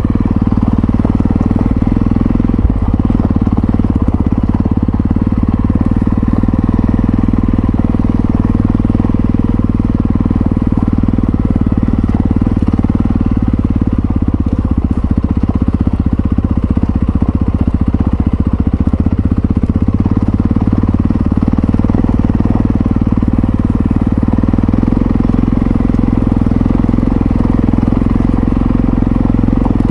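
Yamaha XT660Z Ténéré's single-cylinder engine running steadily at an even pitch, with no rev changes.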